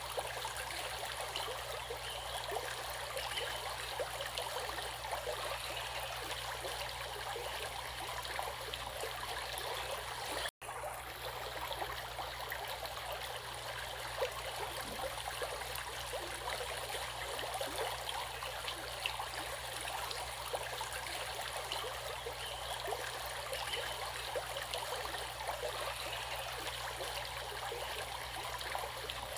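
Water running in a stream, a steady splashing rush with small gurgles, which drops out for an instant about ten seconds in.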